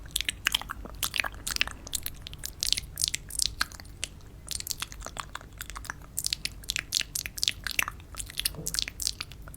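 Close-miked crisp crunching and crackling: dense, irregular sharp clicks, with a short lull about four seconds in.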